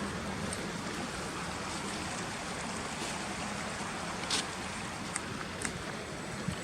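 Steady rushing background noise, with a few brief high-pitched sounds about four and five seconds in.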